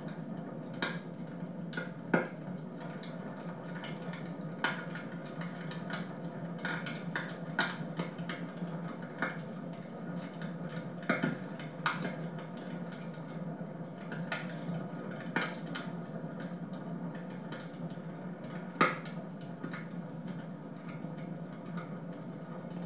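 Wood fire crackling in a home fireplace: a steady low rush with irregular sharp pops and snaps, the loudest about two seconds in, around eleven to twelve seconds and near nineteen seconds.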